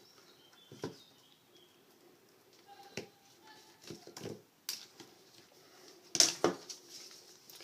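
Handling noises as the soldering iron's cable ties and packaging are undone: scattered soft rustles and small plastic clicks, with a louder clack about six seconds in.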